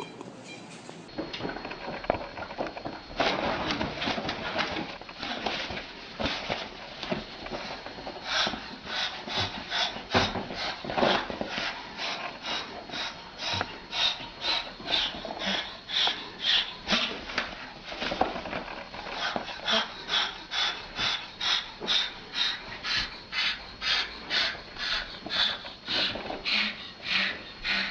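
A parrot making short calls over and over, about one and a half a second, in a long steady rhythm.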